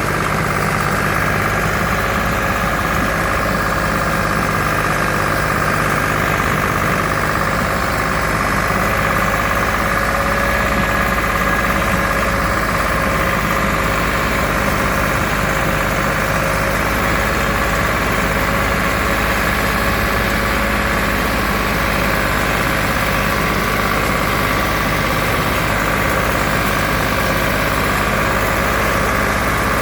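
Same Minitaurus 60 tractor's diesel engine running steadily at an even speed.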